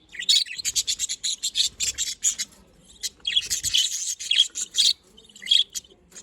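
Budgerigars chirping and chattering in quick short notes, a dense burst of chatter about halfway through.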